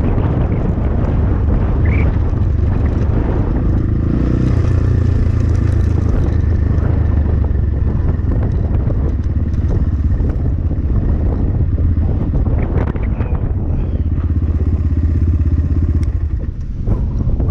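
A Templar X 250 dirt bike's engine running steadily under way, mixed with heavy wind buffeting on the microphone. The low rumble grows heavier a few seconds in and eases slightly near the end.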